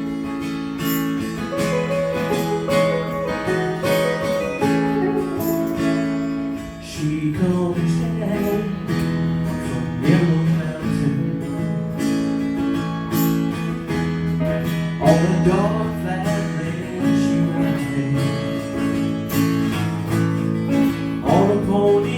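Music: acoustic guitar strumming and picking the instrumental introduction to a country ballad.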